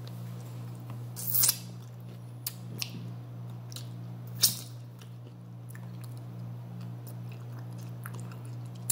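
Close-up eating sounds of a person eating with her fingers: chewing with wet mouth smacks and clicks, two louder smacks about one and a half and four and a half seconds in. A steady low hum lies underneath.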